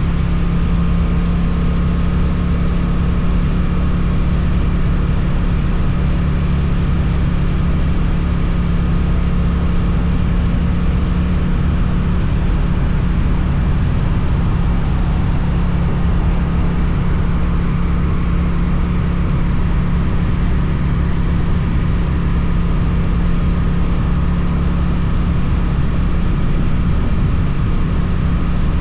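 Suzuki motorcycle engine with an Akrapovič exhaust running at a steady, unchanging pitch.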